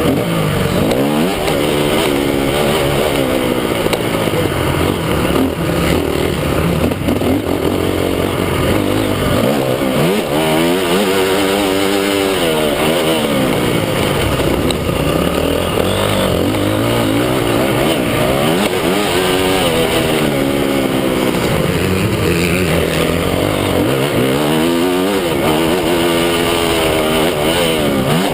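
Motocross bike engines running on the track, revving up and down again and again, the pitch climbing and dropping every few seconds.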